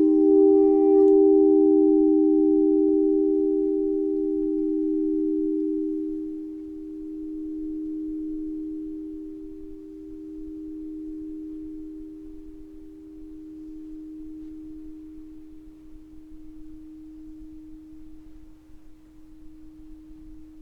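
A singing bowl ringing out after a strike, one low, pure tone with a few overtones that fades slowly and wavers in a slow pulse. A brief higher ringing sounds about a second in.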